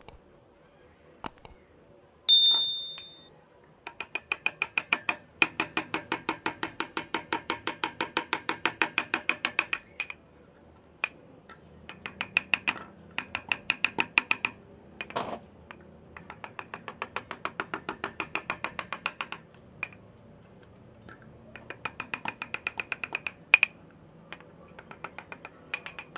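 Rapid, regular taps on wood while carving, about five a second in runs of several seconds with short pauses, each tap ringing with a pitch. A single metallic clink sounds about two seconds in.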